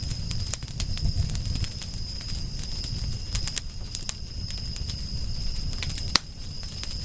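Campfire crackling, with many small sharp pops over a low rumble of the flames and one louder crack about six seconds in. A steady thin high tone runs behind it.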